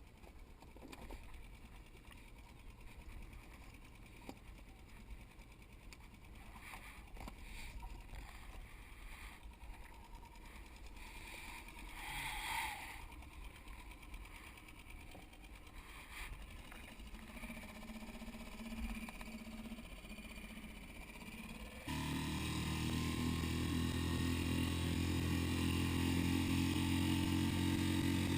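A quiet stretch with a few faint knocks and clicks. About three-quarters of the way in, a boat's engine cuts in abruptly and runs steadily and loudly.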